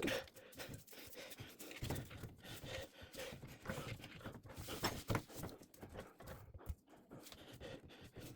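A person breathing hard while straining at work under a sink, with faint, scattered knocks and scrapes of tools and metal fittings.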